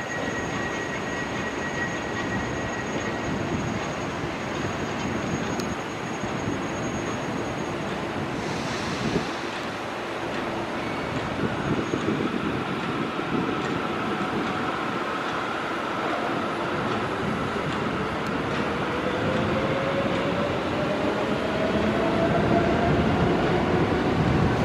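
Heavy machinery working at a loading site: the diesel engines of a CAT 320 tracked excavator and a farm tractor pulling a dumper trailer, with a rumbling, clattering mechanical noise. Over the last several seconds an engine's pitch rises steadily as it speeds up.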